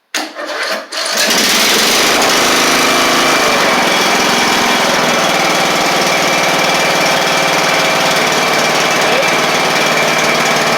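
Craftsman LT1000 lawn tractor's small engine sputtering for a moment, then catching about a second in on its newly fitted starter and running steadily.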